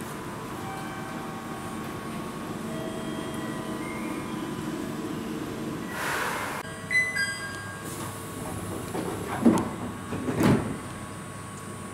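Electric local train standing at the platform with a steady hum. About halfway through comes a short hiss of air with a few short electronic beeps. Two heavy knocks follow about a second apart as the train's sliding doors work.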